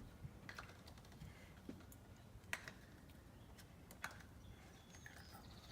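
Faint low hum of a 1960s Dominion box fan coasting down after being switched off, with a few scattered light ticks.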